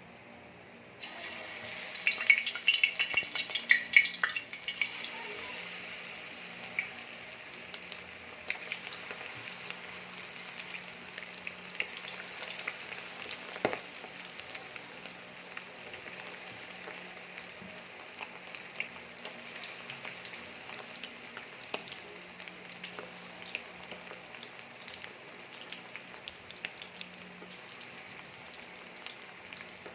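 Chicken frying in hot oil: a sizzle starts suddenly about a second in, crackles loudest for the next few seconds, then settles into a steady sizzle with scattered pops.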